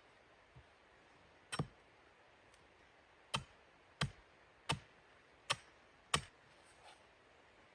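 Six sharp knocks in a row: one about a second and a half in, then five more close together, roughly one every two-thirds of a second, each with a short ring after it.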